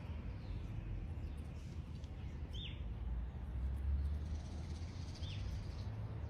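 Two short, high bird chirps that drop in pitch, a few seconds apart, over a steady low rumble.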